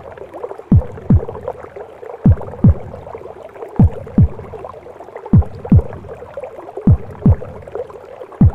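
Mother's heartbeat as heard in the womb: a slow beat of double low thumps, lub-dub, about every second and a half, over a continuous whooshing womb noise and soft music.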